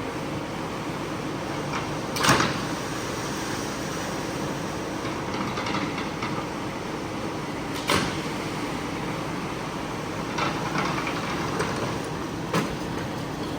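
A cleaning machine's motor running steadily, with a few sharp knocks about two, eight and twelve seconds in.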